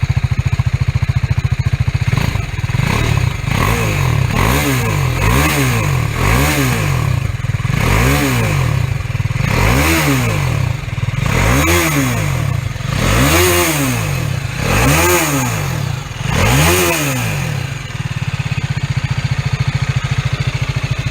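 TVS Apache RR 310 motorcycle's single-cylinder engine and stock exhaust idling, then revved with about ten quick throttle blips, each rising and falling in pitch. It settles back to a steady idle near the end.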